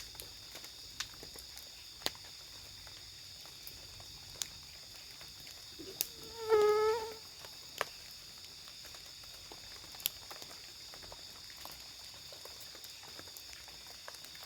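Steady high-pitched chorus of night insects, crickets, with scattered sharp ticks through it. About halfway, a short pitched call lasting under a second stands out as the loudest sound.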